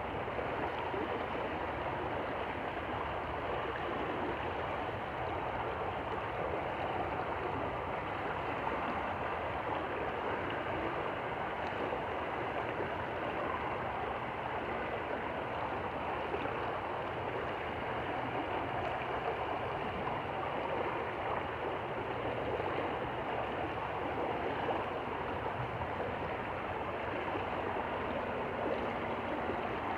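A stream flowing, a steady rush of water with a gurgle.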